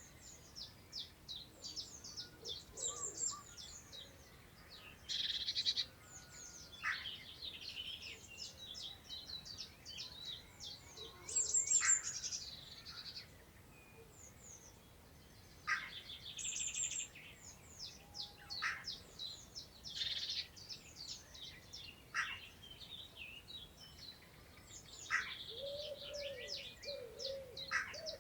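Several songbirds singing at once: a dense, continuous run of high chirps and trills with a few louder buzzy phrases. A low, repeated cooing starts near the end.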